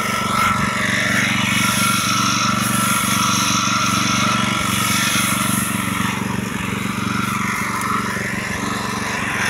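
Small petrol engine of a power weeder running steadily.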